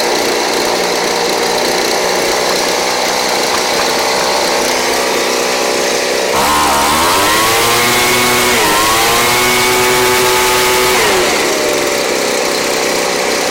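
Craftsman 29cc two-stroke handheld leaf blower running on an aftermarket Chinese-made spark plug. It idles steadily, is throttled up about six seconds in, eases off briefly, revs again, then drops back to idle. It runs and revs cleanly on the new plug.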